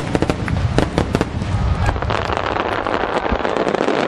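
A rapid barrage of large aerial firework shells (shakudama, 12-inch shells) bursting. A quick string of sharp booms comes first; about two seconds in, the overlapping bursts merge into a dense, continuous crackle and rumble.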